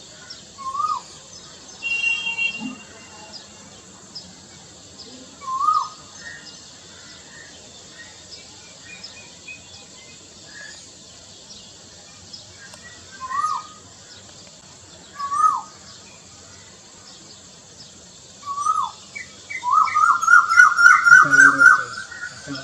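Male Asian koel calling: single rising 'koo' notes a few seconds apart, then near the end a fast run of about ten rising notes that climb higher in pitch. Small birds chirp faintly in the background.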